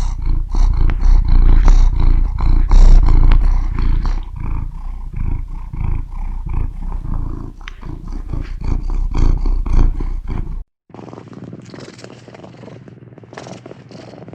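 Domestic cat purring close to the microphone: a loud low rumble that swells and fades with each breath. About eleven seconds in it cuts abruptly to a quieter, thinner purr.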